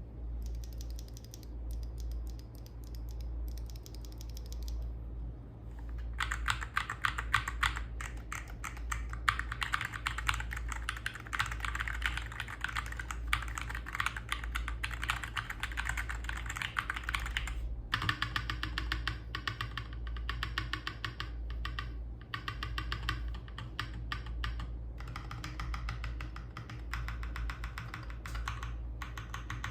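Madlions MAD68 Pro magnetic-switch keyboard being typed on. A few scattered keystrokes come first, then fast continuous typing starts about six seconds in, with a short pause near the middle. It is picked up by a phone microphone.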